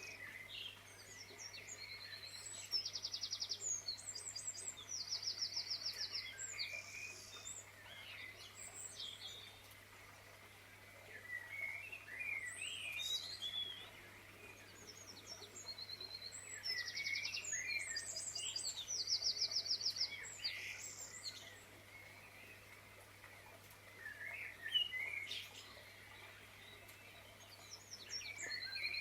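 Birds chirping and singing, with rapid high trills and short whistled notes in bursts; the same phrases come back about every 13 to 14 seconds, like a looped nature-ambience recording. A faint steady low hum lies underneath.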